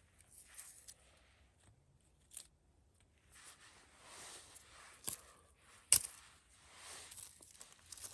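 Soft rustling and scraping with a few short, sharp clicks, the loudest about six seconds in.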